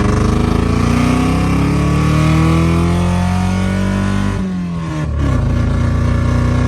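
Honda Accord engine and exhaust pulling away, the engine note rising steadily for about four seconds. It then dips briefly, as on a gear change with the clutch, and carries on at a lower, steady pitch.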